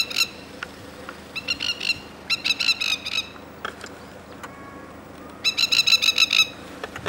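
Masked lapwing giving its rapid, staccato alarm call in four bursts of quick repeated notes: the alarm of a parent defending its chicks while swooping an intruder.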